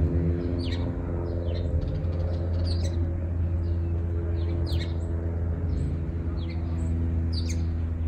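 Small songbird chirping: short, quick falling chirps, often in pairs, about one to two a second, over a steady low hum.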